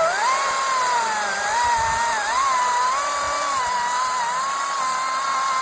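Cordless STIHL battery chainsaw running free with the trigger held, a steady high electric-motor and chain whine whose pitch wavers slightly.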